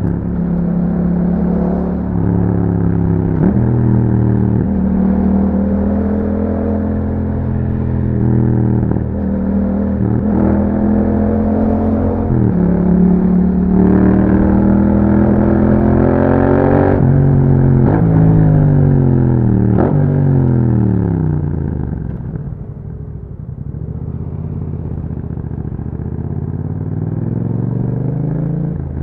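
Yamaha MT-07's parallel-twin engine through an aftermarket Akrapovic exhaust, accelerating up through the gears with a short dip in revs at each shift and a longer rising pull around the middle. The revs then fall in steps as it downshifts, settle to a low rumble, and begin rising again near the end.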